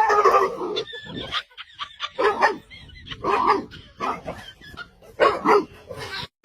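A dog giving a run of short barks and vocal calls, spaced about a second apart.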